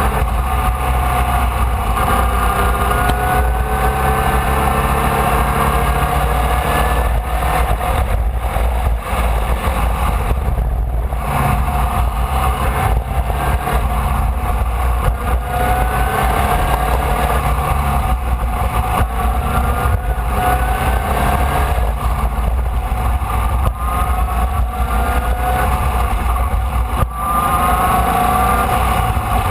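Formula Vee's air-cooled Volkswagen flat-four engine at racing speed, heard onboard: the revs climb repeatedly and drop back as the car accelerates, shifts and slows for corners. A constant heavy low rumble runs underneath.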